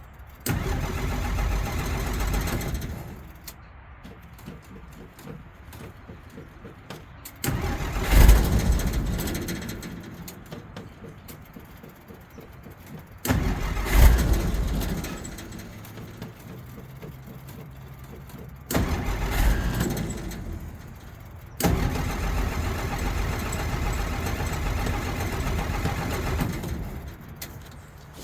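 1963 Jeep Gladiator's engine cranked by the starter in five separate tries of a few seconds each. On the second and third tries it catches briefly with a sharp burst of running, then dies away. This is a hard start: the truck won't start or stay running.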